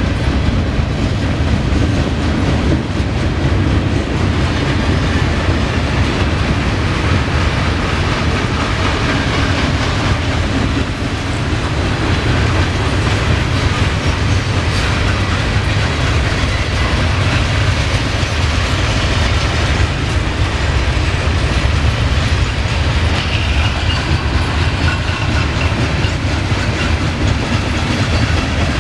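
A Norfolk Southern mixed freight train's cars rolling past with a loud, steady running noise of steel wheels on rail.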